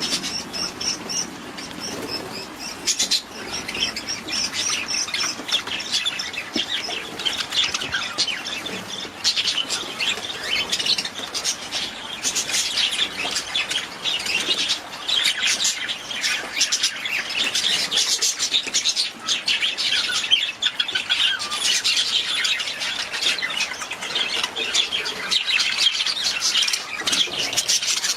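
Budgerigars chirping and chattering continuously in a busy, overlapping stream of short high calls.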